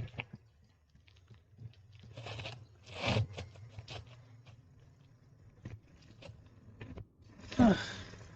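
Irregular crunching, scraping and clicking from a mountain bike riding over a rough road, in scattered bursts. Near the end comes a louder, short sound that drops in pitch.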